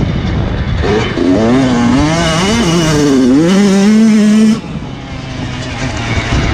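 Motocross bike engine revving close by, its pitch climbing and dropping several times as it runs through the gears. It cuts off abruptly about four and a half seconds in, leaving a quieter, noisy rumble.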